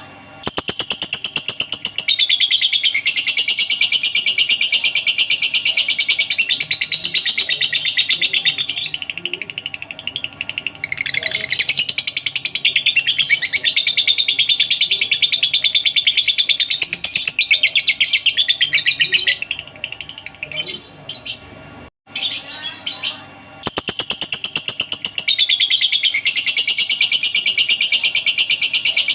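Lovebird's long 'ngekek' song: a loud, very fast chattering trill of high repeated notes held for many seconds at a stretch. It breaks off about three-quarters of the way through, then starts again.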